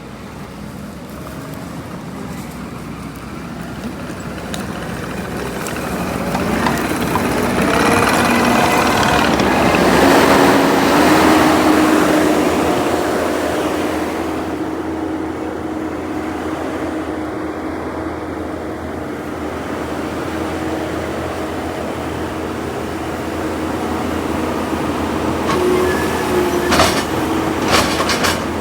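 Diesel engine of a debris-grapple machine running under load as it works its boom, swelling louder about a third of the way through and then holding steady with a constant tone, with several sharp knocks near the end.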